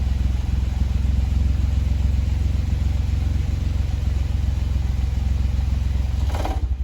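Suzuki Jimny JB23's three-cylinder turbo engine idling steadily through an aftermarket AGITO Racing Parts racing muffler, with a deep exhaust rumble. The engine is shut off near the end.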